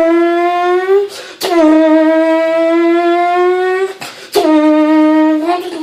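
A person imitating a car engine with his mouth: long, steady, buzzing vocal notes at a fixed pitch, three of them, each rising slightly at its end, separated by quick breaths.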